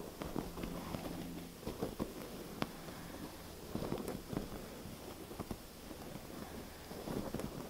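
Tapping and scratching on objects: irregular light taps and clicks, with short bursts of scratching.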